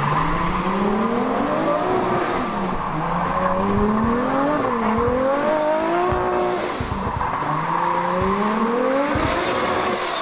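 Drift car's engine revving up and down in repeated swells, over steady tyre squeal as it slides.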